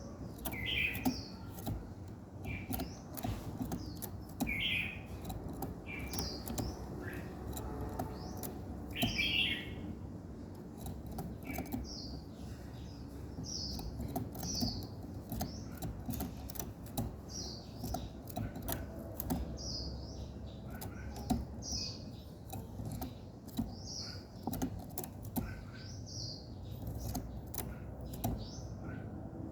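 Songbirds chirping, short high chirps repeated about once a second, over many sharp clicks and a steady low background rumble.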